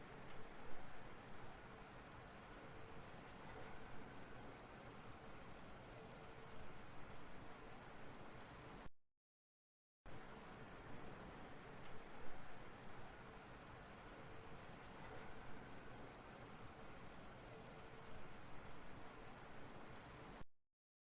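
Singing insect stridulating: a continuous high-pitched chirring that cuts off about nine seconds in, falls silent for about a second, then resumes and stops again shortly before the end.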